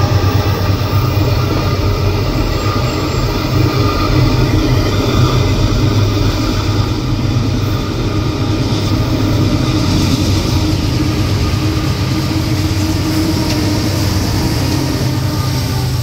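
Diesel freight locomotives running steadily as the train approaches across a steel truss railroad bridge, with a deep low engine hum throughout; the lead locomotive reaches the microphone and passes close by near the end.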